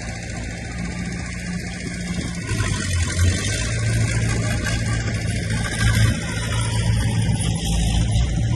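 Heavy diesel earthmoving machinery running steadily under load, growing louder about two and a half seconds in.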